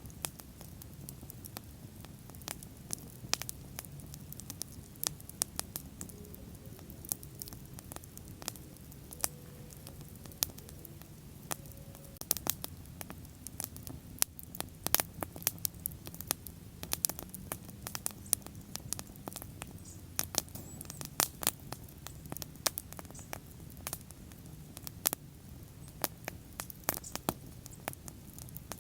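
Wood fire burning with irregular sharp crackles and pops over a low, soft rumble of flame.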